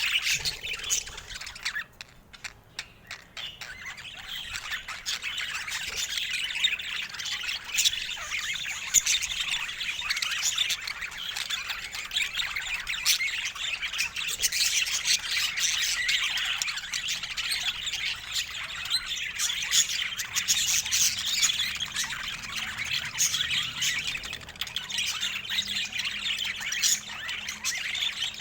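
Budgerigar chatter: a continuous run of squawks, chirps and warbling, briefly quieter about two seconds in.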